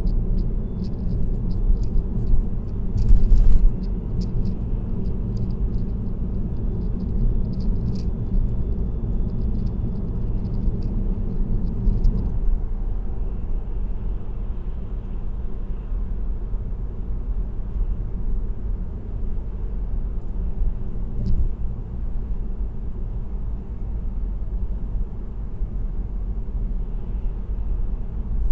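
Steady low road and engine rumble of a car cruising on an expressway, picked up by a dashcam, with light ticks and rattles through the first twelve seconds and a brief louder noise about three seconds in.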